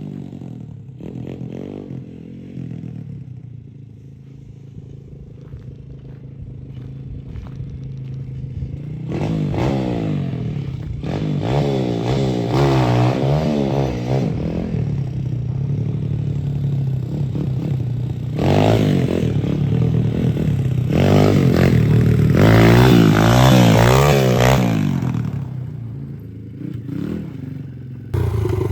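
Small single-cylinder Chinese pit bike engine running, idling low at first and then revved up and down repeatedly in two spells, before settling back near the end.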